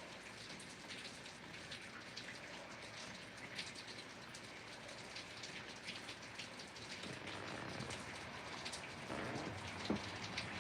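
Steady rain falling, with many individual drops tapping on a hard surface; it grows somewhat heavier about two-thirds of the way through.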